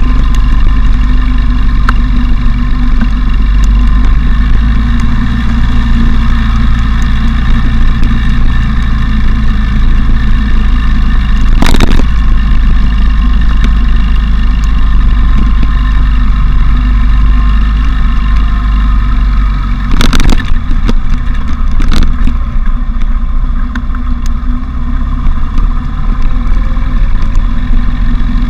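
Motorcycle riding along with its engine running steadily under heavy low wind rumble on the camera's microphone. A few short knocks come about halfway through and twice more later.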